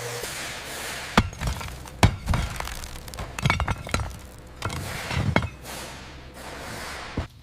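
A series of sharp knocks and clinks at irregular intervals, some in quick pairs, over a steady hiss.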